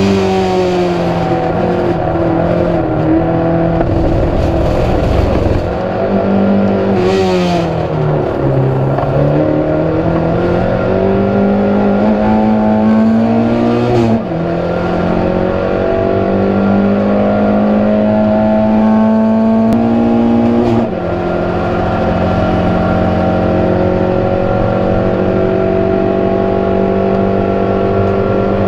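Proton Saga race car engine running hard at racing speed, its revs climbing steadily and dropping sharply at upshifts about 14 and 21 seconds in. Revs dip and pick up again around 7 to 9 seconds in.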